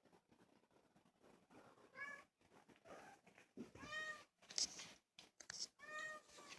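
Kitten meowing three times: short high-pitched mews about two seconds apart, the middle one the longest.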